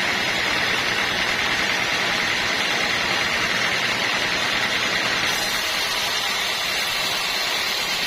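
Steady machine noise with a high whine in it, unchanging in loudness, typical of sawmill machinery running; a brighter hiss joins about five seconds in.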